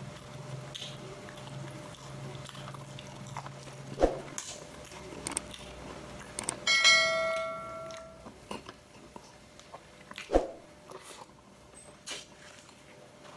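Close-up eating sounds: chewing and small mouth and utensil clicks, with two dull knocks about four and ten seconds in. About seven seconds in, a single bright ringing clink, like metal cutlery striking a plate or glass, fades over about a second.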